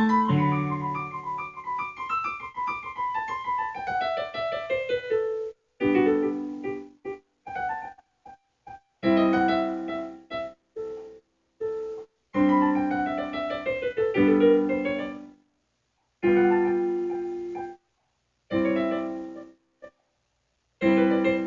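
Solo piano music: a run of notes falling in pitch over the first few seconds, then short phrases and chords broken by sudden gaps of silence.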